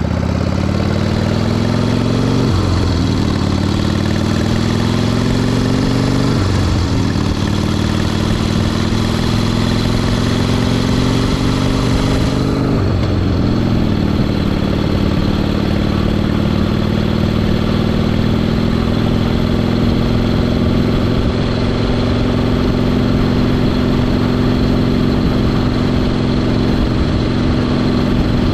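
1974 Harley-Davidson Sportster's Ironhead V-twin under way, pulling up through the gears. The engine rises in pitch and drops sharply at each of three upshifts in the first thirteen seconds or so, then holds a steady cruising note.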